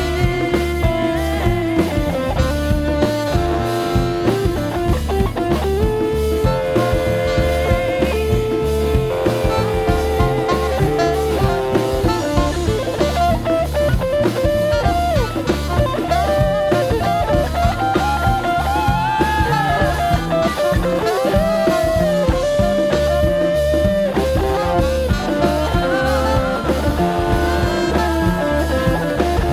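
Instrumental break in a band's song: a lead guitar melody with held and bending notes over bass and drum kit.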